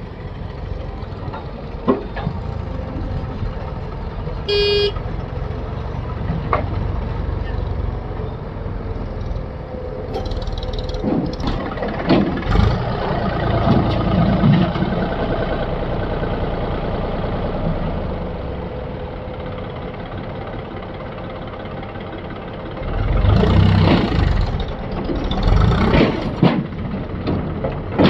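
Diesel engine of heavy earth-moving machinery running steadily, with a short horn toot about four seconds in. The engine grows louder with knocks around the middle, and again in two surges near the end.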